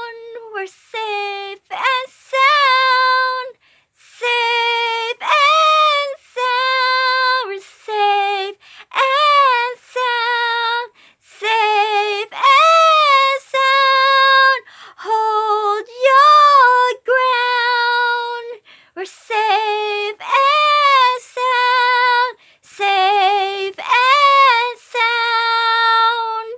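A young female voice singing unaccompanied: a melody of short and held notes, broken by brief pauses between phrases.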